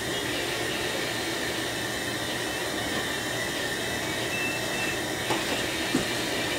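Steady rushing background noise with no clear pitch, with two light clicks about five and six seconds in.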